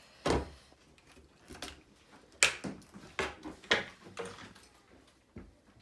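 A string of sharp clicks and knocks of small plastic and metal RC truck parts being handled and worked loose during disassembly of the front suspension, with the louder knocks about a quarter second in, around two and a half seconds and near four seconds.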